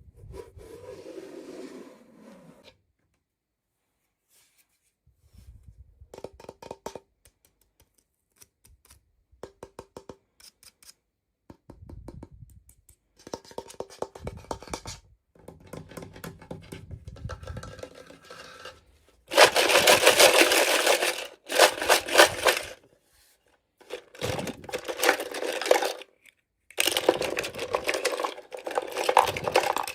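Plastic toy packaging being handled and torn open in stop-start bursts of crinkling, scraping and clicking. The loudest crinkling comes in two stretches in the second half.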